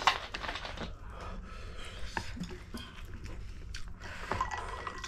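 Close-miked eating sounds of a person chewing spicy ramen noodles, with scattered short wet clicks and breaths; the loudest is just after the start.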